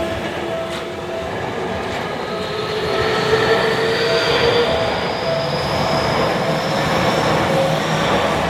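Seibu Ikebukuro Line electric train running through a level crossing, its motors giving a whine that rises slowly in pitch over the rumble of the wheels on the rails, while the crossing's warning bell keeps dinging about twice a second.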